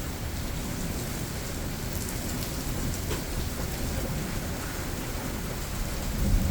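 Thunderstorm: steady rain falling with a low rumble of thunder underneath, swelling louder near the end, and a few sharp drip ticks.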